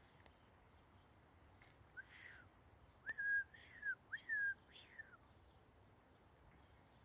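A short phrase of about five clear whistled notes, each bending briefly in pitch at its start or end, starting about two seconds in and ending about five seconds in.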